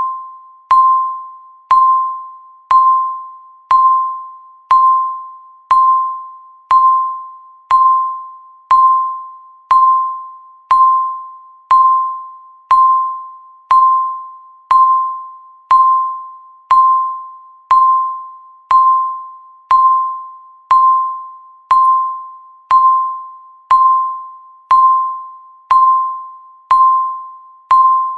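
Countdown timer's ticking sound effect, one tick each second at an even pace. Each tick is a sharp click followed by a short fading ring.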